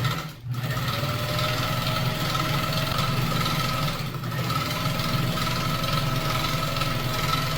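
Pfaff 130 sewing machine with its Pfaff 50010 'coffee grinder' pattern attachment, running steadily under its motor as it sews a decorative pattern stitch, the attachment working the stitch width lever back and forth.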